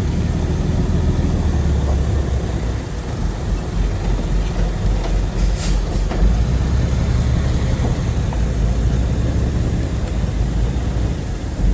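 Heavy diesel engine of earthmoving machinery running steadily, a deep low engine sound, with a short high hiss about halfway through.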